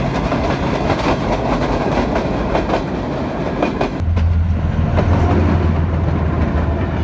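Train passing close by, its wheels clattering over the rail joints. About four seconds in, a steady low hum sets in under the clatter.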